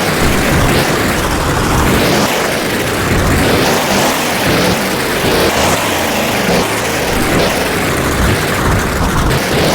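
Monster truck running, a loud steady noisy drone that swells and eases unevenly.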